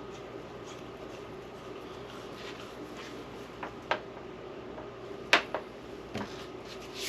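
A steady low hum, with a few sharp clicks and knocks of things being handled; the loudest knock comes a little past five seconds in.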